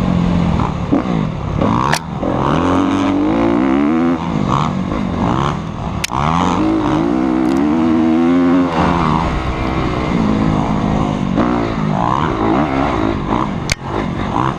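Motocross dirt bike engine revving up and down again and again as the throttle is opened and closed. Three sharp clicks cut through: about two seconds in, about six seconds in and near the end.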